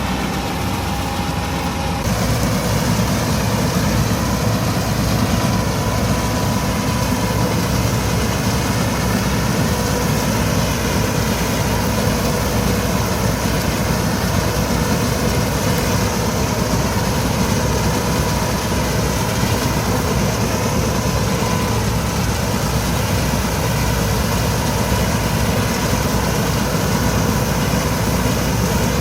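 Massey Ferguson 385 tractor's diesel engine running steadily while driving a wheat straw chopper off the PTO, with a continuous drone and a steady whine on top. The sound shifts slightly about two seconds in.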